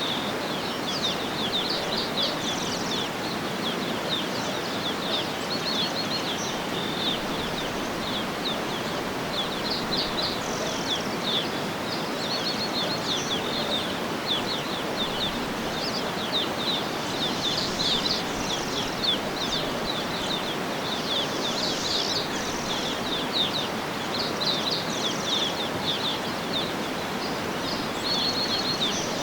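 Nature ambience: many small birds chirping and singing continuously over a steady rushing background noise.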